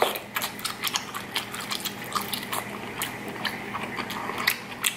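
Close-up eating sounds of a person chewing sauce-dipped lobster tail meat: many short, wet mouth smacks and clicks.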